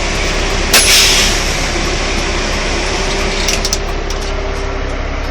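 Steady running noise inside a truck's cab, a constant drone with a steady hum. About a second in there is a short, loud burst of noise, and a few faint clicks follow later.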